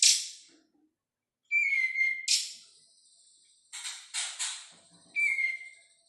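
Young cungkok songbird calling: sharp high chirps in quick succession and short steady whistled notes, with a brief pause about a second in.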